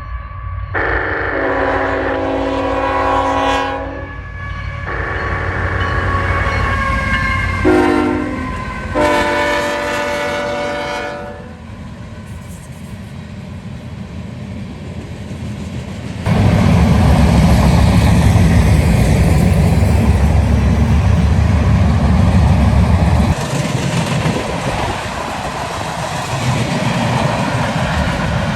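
A pair of GE ET44AH diesel locomotives sound the grade-crossing signal on the horn: long, long, short, long. The locomotives then pass close by with a loud, deep engine rumble lasting about seven seconds, followed by the freight cars rolling past.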